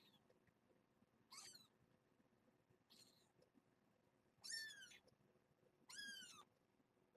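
Kittens under two weeks old mewing: four short, high-pitched mews a second or so apart, each rising and falling in pitch, the two loudest about four and a half and six seconds in.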